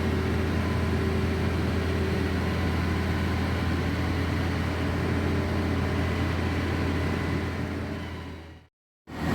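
Cement lorry's engine running steadily with a low hum. Near the end it fades and breaks off for a moment, then comes back at the same level.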